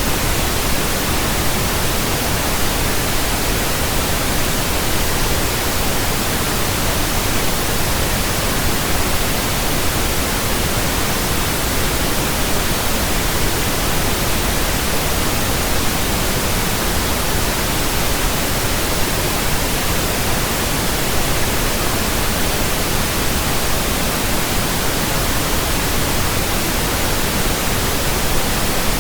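Pink noise from a pink noise generator: a steady, even hiss across the whole range, with no change. It is a burn-in signal for breaking in new speakers, headphones and earphones.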